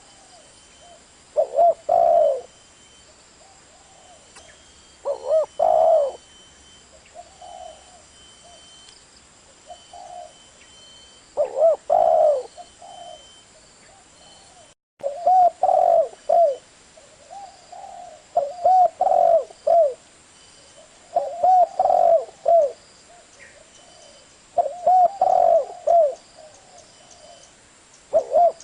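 Spotted dove cooing: short phrases of low coos, repeated every few seconds. The sound cuts out completely for a moment about halfway through.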